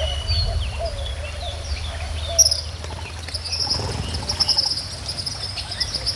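Small birds chirping and calling over the steady low rush of a flowing stream. About halfway through, a high, rapidly pulsing trill sets in and carries on.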